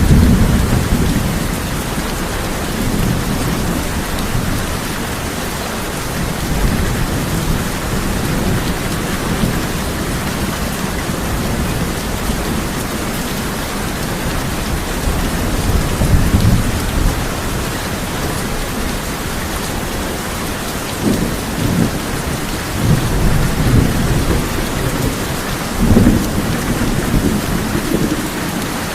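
Heavy rain falling steadily on a tin roof, with thunder rumbling several times: at the very start, about halfway through, and in a cluster of rolls near the end.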